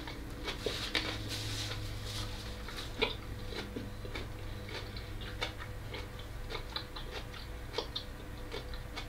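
Close-miked chewing: soft, irregular wet mouth clicks and smacks over a faint steady hum.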